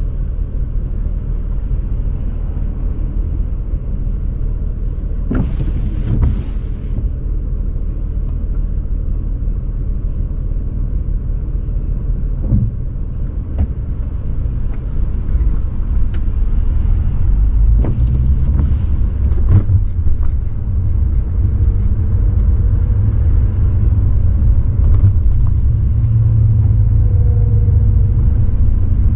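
A 2003 BMW 540i's 4.4-litre V8 engine and exhaust running with a low, steady rumble while the car is driven, growing louder a little over halfway through. A few short sharp clicks sound over it.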